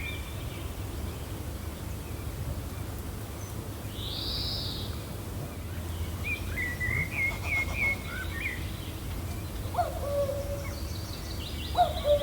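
Wild birds calling over a steady low wind rumble: a high arched call, then a quick run of chirps, then two short, lower calls near the end, which are the loudest sounds.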